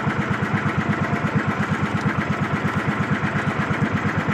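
Small fishing boat's engine running steadily with a fast, even chugging beat.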